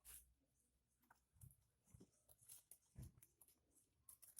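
Near silence: room tone with a few faint, scattered ticks and soft rustles.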